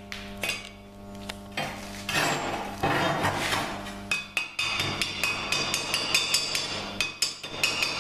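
A small hammer tapping repeatedly on a metal casting, about four quick ringing strikes a second, starting about halfway through. Before the tapping there is a rough rasping noise, and a steady low hum runs underneath.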